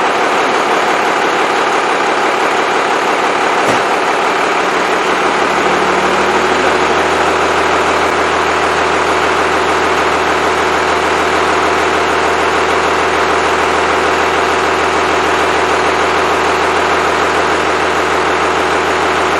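Freshly rebuilt Cummins 5.9L 12-valve diesel engine running steadily, with a brief tick about four seconds in.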